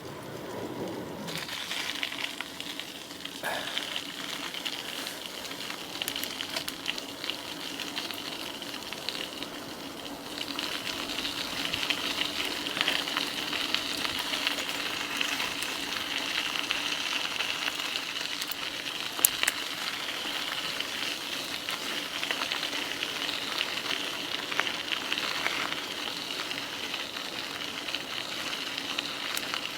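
An e-bike riding along a trail: steady hissing tyre and drive noise with a faint low hum, a little louder from about ten seconds in.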